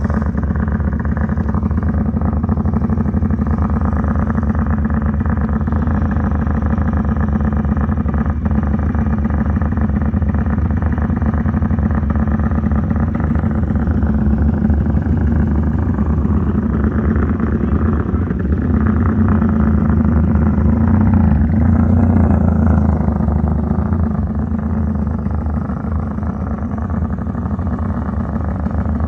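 Motorcycle engine running loudly and steadily for the whole stretch, swelling slightly a couple of times.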